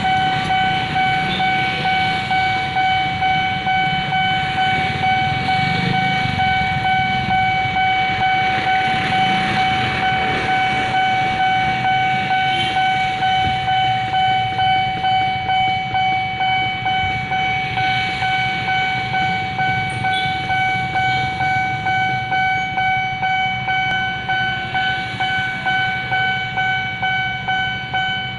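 Railway level-crossing warning alarm ringing, one steady tone repeating about twice a second, over a low rumble.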